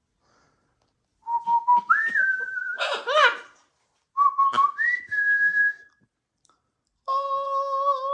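Whistling: two short phrases, each a low note stepping up to a higher held note, the first followed by a brief raspy burst. Near the end a woman hums a long, steady note.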